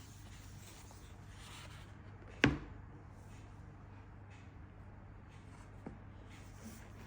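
Packaging being handled during an unboxing: faint soft rustling, a single sharp knock about two and a half seconds in, and a much lighter tap later.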